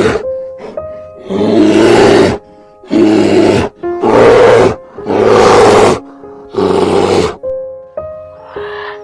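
A large animal giving a series of loud, rough, roar-like calls, about six bursts of roughly a second each, over background music.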